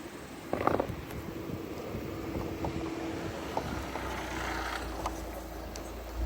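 Low rumble of a passing motor vehicle that builds over the last few seconds, with a short scuffle of handling about half a second in and a few light clicks.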